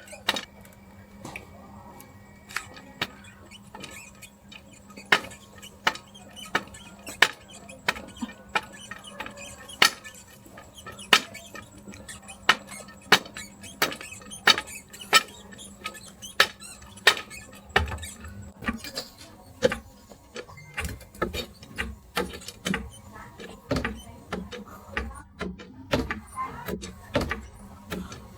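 Sharp metallic knocks and clinks, roughly one or two a second, over a steady low hum; about two-thirds of the way through, duller low thuds join in.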